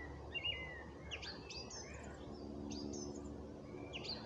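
Songbirds chirping: a run of short, quick downward-sweeping notes, several in close succession, over a faint steady low hum.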